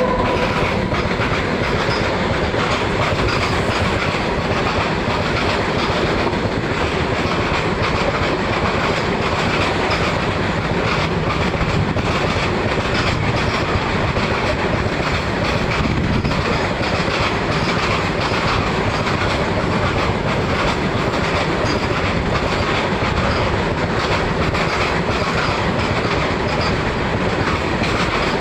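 Freight train of goods wagons passing, its wheels clattering steadily over the rails at an even loudness.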